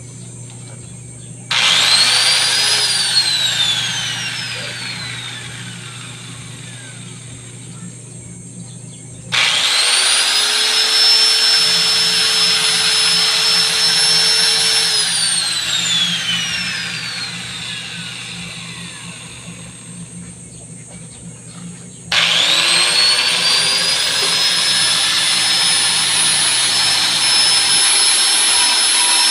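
Electric grinder switched on three times, each start spinning up to a high steady whine. The first, about a second and a half in, coasts down at once with a falling pitch. The second, about nine seconds in, runs for several seconds before winding down, and the third, near the end, keeps running.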